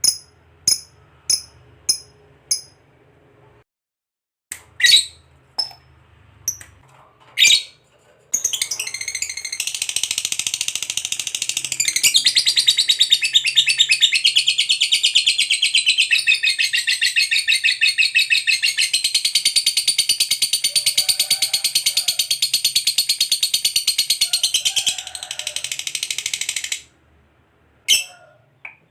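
Lovebird calling: a run of sharp single chirps, then a long, unbroken, rapid chattering trill (the 'ngekek panjang') that starts about eight seconds in and lasts about eighteen seconds before it breaks off into single chirps again.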